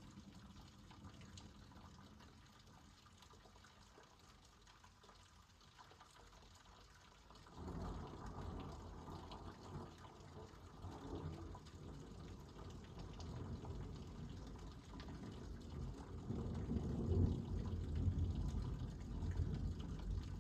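Thunder during a night electrical storm: after a few quiet seconds a long, low rumble starts suddenly and swells unevenly, loudest near the end.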